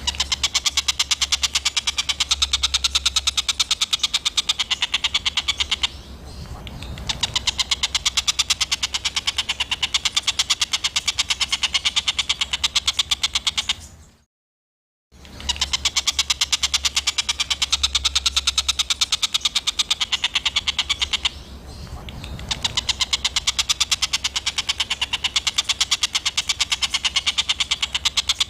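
A small songbird's rough, rapid-fire chattering call ('tembakan kasar'), a fast even run of sharp notes over a low hum. It is a looped masteran recording: the same stretch of about fourteen seconds plays twice, with a brief break halfway through and a softer dip a few seconds into each pass.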